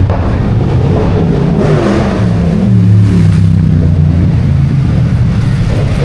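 Loud car engine running, its pitch wavering up and down a little as it is revved.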